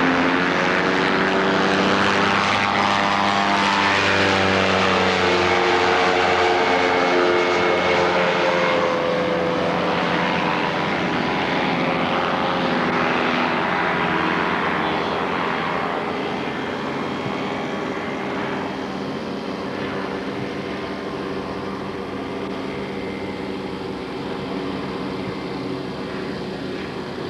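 Kolb ultralight aircraft's propeller engine running steadily, its pitch drifting slightly. It is loudest for the first several seconds, then grows gradually fainter.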